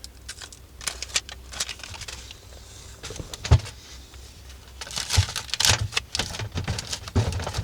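Reflective foil tape being rubbed down over the seams of a metal solar-tube duct: irregular crinkling and tapping, with one sharper knock about three and a half seconds in and a busier stretch of crackling near the end.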